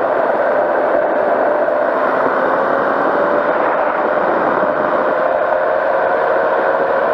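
Steady drone of a powered parachute's engine and propeller in flight, picked up through the pilot's headset radio, with a few steady tones over a constant rushing noise.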